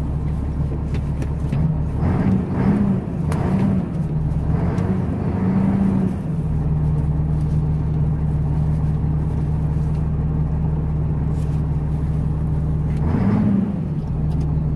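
Renault Magnum truck's Mack six-cylinder 400 hp diesel engine running steadily, with a few short rises in revs about two to six seconds in and one more near the end.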